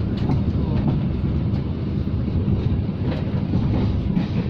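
Taksaka passenger train running along the track, heard from aboard: a steady low rumble of wheels on rails, with scattered clicks and knocks.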